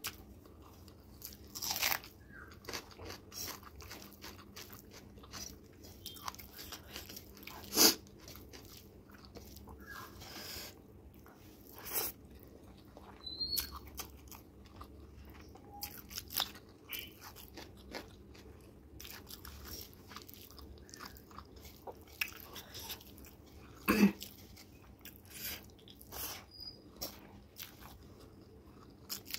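Close-miked eating sounds: wet chewing and lip smacks of curry and rice eaten by hand, with scattered crunchy bites, the loudest about 8 seconds in and again about 24 seconds in.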